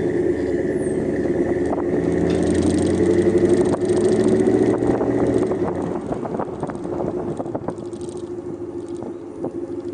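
2013 Ram 1500's 5.7-litre Hemi V8 running through a Flowmaster Super 40 muffler with a K&N intake. The exhaust note is louder for about the first five seconds, then eases off a little.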